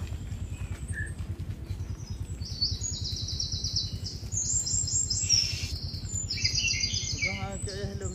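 Small birds singing in fast, high, repeated trills, beginning about two and a half seconds in, over a steady low rumble. A short wavering lower call comes near the end.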